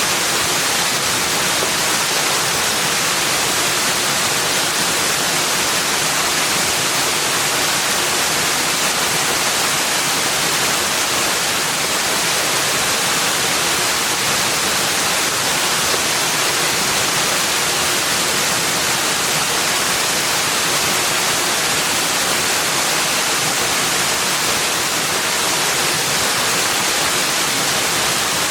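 Steady rushing of running water, an even hiss that never changes, with no birds or other sounds standing out.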